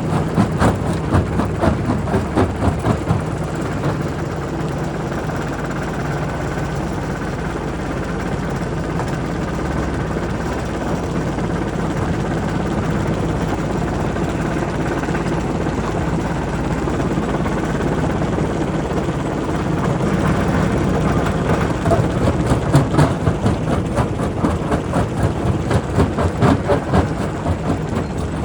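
Primary rock crusher running with a steady heavy mechanical drone, with rapid irregular knocks and cracks of rock being broken, busiest in the first few seconds and again from about twenty seconds in.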